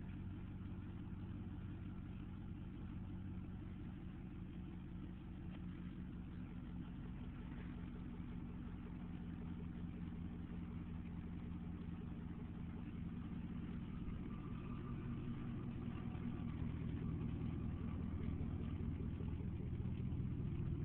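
2003 GMC 1500 pickup's engine idling steadily, growing slightly louder toward the end.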